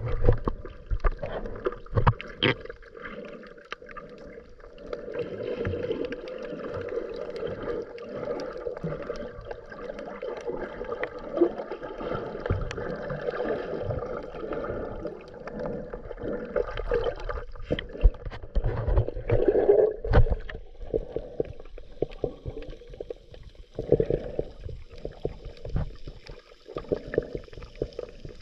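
Scuba diving heard underwater: a diver's regulator breaths and exhaled bubbles gurgling in swells every few seconds, with scattered sharp clicks and crackles.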